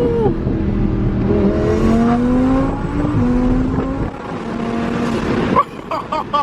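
Twin-turbo Lamborghini Huracan V10 accelerating hard. Its pitch climbs and then drops back at each upshift, twice, before the engine comes off the throttle with a sharp fall near the end.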